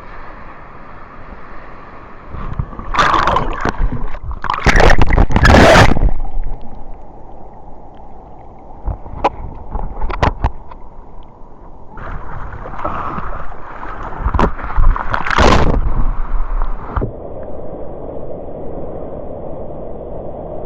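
Sea water sloshing and splashing close to the microphone in surf, with two longer, louder rushes of water, one about three seconds in and one from about twelve to seventeen seconds.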